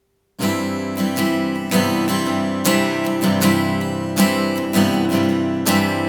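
A vintage Japanese acoustic guitar being strummed, starting suddenly about half a second in. It gives a dozen or so chord strokes, and the chord rings on between the strokes.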